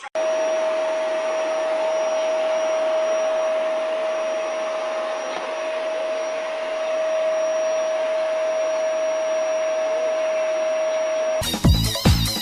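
A steady motor-driven whirring noise with one constant tone running through it, like a vacuum cleaner or hair dryer running. It cuts off abruptly near the end as electronic dance music starts.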